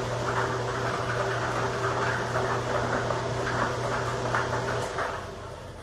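Raffle ball machine running: a steady blower hum with balls clicking and rattling against each other, until the machine shuts off about five seconds in.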